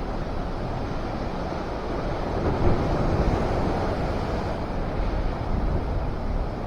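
Wind blowing across the microphone, a steady rushing noise heavy in the low end, by the open sea.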